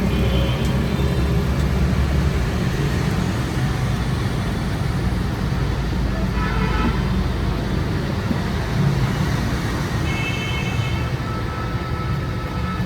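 Steady low rumble of a running motor, with two short higher-pitched tones, one near the middle and one about ten seconds in.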